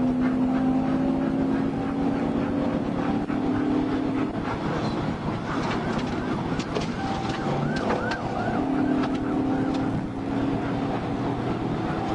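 Police patrol car running hard in a pursuit, with steady engine and road noise. About seven seconds in, a siren briefly gives a quick repeating yelp.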